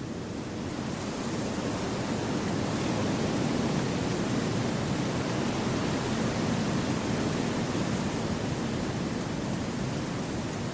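Wind blowing through forest trees: a steady rushing that swells over the first couple of seconds, then holds.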